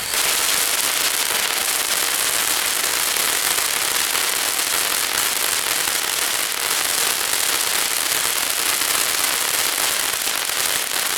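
Fireworks crackling and hissing in one dense, unbroken stream at a steady level.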